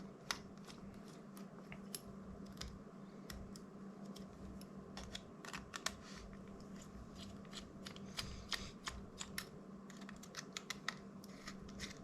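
Irregular small clicks and taps of a precision screwdriver and small plastic drone parts as screws are worked out of the DJI Mini 2's plastic frame, over a faint steady hum.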